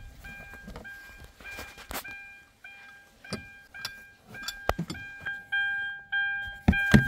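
An electronic warning chime repeating on one pitch about twice a second, with sharp clicks and knocks of handling that get louder near the end.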